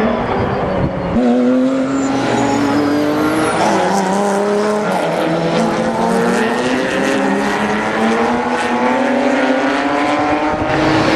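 GT3 race cars' engines running hard on a circuit, several at once. Their pitch climbs steadily and drops back in steps as they shift up through the gears.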